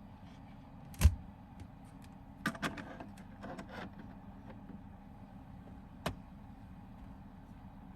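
A sharp knock, then a short run of clicks and rattling handling sounds and a second knock, over a steady low hum.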